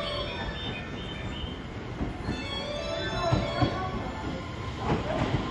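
JR East E261-series Saphir Odoriko electric multiple unit rolling slowly into a station platform, its wheels running with a high steady squeal. Several clunks from the wheels over rail joints and points come in the second half.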